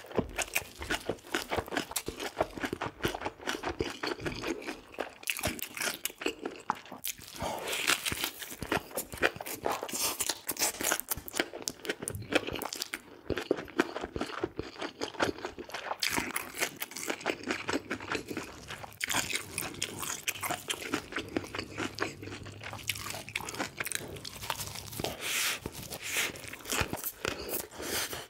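A person chewing and biting food close to the microphone: a continuous stream of quick, wet mouth clicks and smacks.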